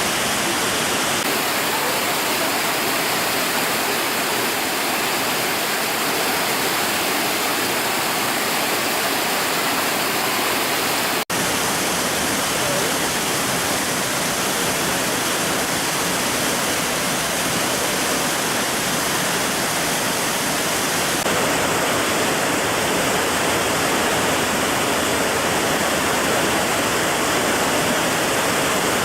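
Waterfall water rushing in a steady, unbroken roar. The sound cuts out for a split second about eleven seconds in.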